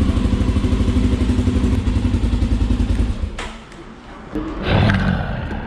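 Motorcycle engine running with an even, rapid pulsing beat that drops away about three seconds in. A sharp click follows, then a short louder burst of noise near the end.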